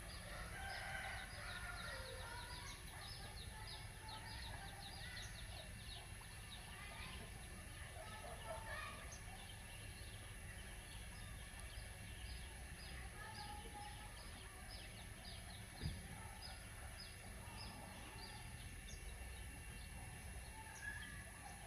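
Birds calling outdoors: a long run of short, high, falling chirps repeating about twice a second, with scattered lower clucking calls typical of domestic fowl, over a steady high-pitched hum. A single soft knock sounds about sixteen seconds in.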